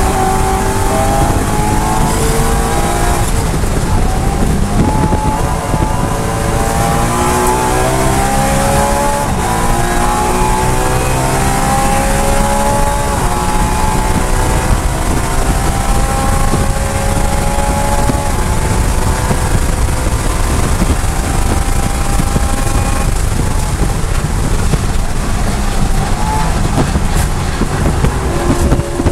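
BMW E92 M3's 4.0-litre V8 heard from inside the cabin under full throttle. It revs up through the gears to about 7,400 rpm in fifth, and the pitch falls near the end as the car slows into a corner in fourth.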